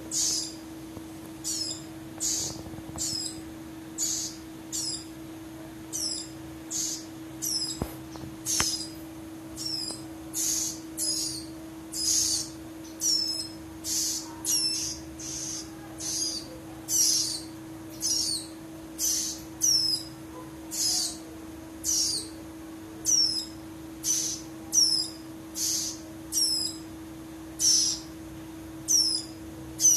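Caged ciblek rowo chick, a young prinia, calling: short high chips that slide downward, repeated evenly about three every two seconds, some of them doubled, over a steady low hum.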